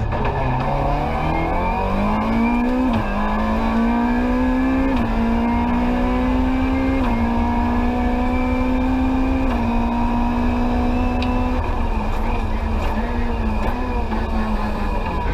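Rally car engine heard from inside the cabin, under hard acceleration. Its pitch climbs over the first three seconds and then holds high with brief dips every couple of seconds. From about twelve seconds in it falls and wavers as the car changes down from fourth to second gear.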